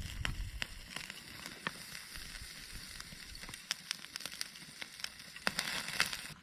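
Wood fire in a fire pit crackling, with a steady hiss and irregular sharp pops.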